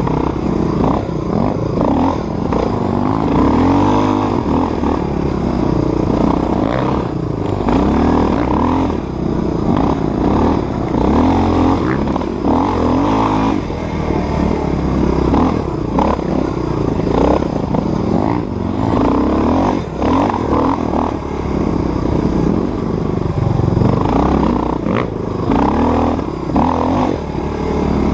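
Dirt bike engine being ridden hard on a rough trail, its pitch rising and falling as the throttle is worked, with rattling and clatter from the bike over bumps.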